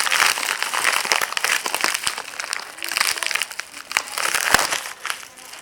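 Mouth guard packaging being opened by hand: a dense run of small irregular crackles, with one sharper click about four and a half seconds in.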